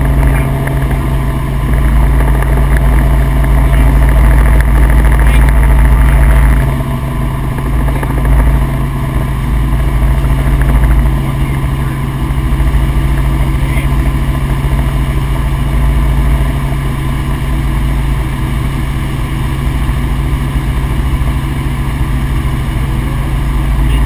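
Helicopter heard from inside the cabin: steady engine and rotor noise with a strong low hum. The upper part of the sound drops away about six and a half seconds in.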